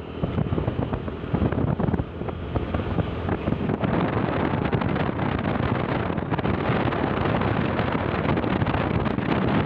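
Steady wind buffeting the microphone, fluttering throughout, over the low hum of a moving vehicle.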